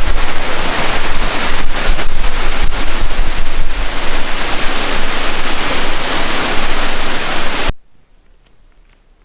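Waterfall close by: a loud, steady rush of falling water with a few brief low bumps, cutting off suddenly near the end.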